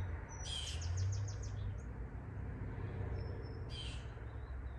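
Songbirds chirping: a quick run of about five short high chirps starting about half a second in, a brief thin whistled note about three seconds in and another short call just before the end, over a steady low background rumble.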